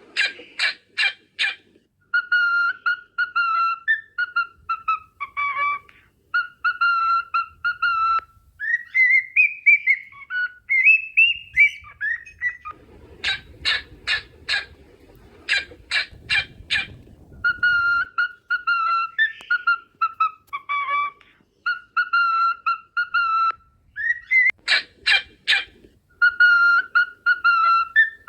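Cockatiels whistling their song: phrases of clear, repeated whistled notes with rising and falling glides. These are broken by quick series of short, sharp chirps at the start, in the middle and near the end.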